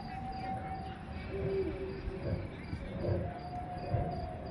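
Crickets chirping in an even rhythm, about three chirps a second, over a low murmur, with a few long held tones sounding now and then.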